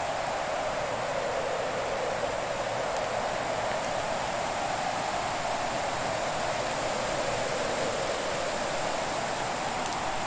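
Fireplace ambience: a steady rushing hiss of a burning fire that swells and dips slowly, with a few faint, sparse crackles.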